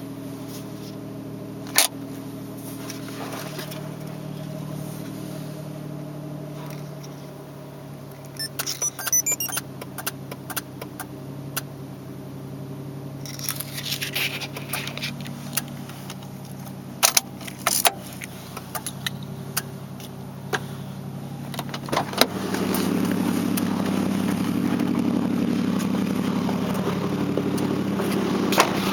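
Toyota Cresta's engine idling steadily throughout, with scattered clicks and jangling keys in the middle. A little over twenty seconds in, the engine sound becomes louder and stays that way.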